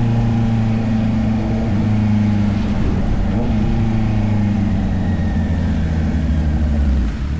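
Honda CB650R's inline-four engine running at fairly steady revs, easing off near the end.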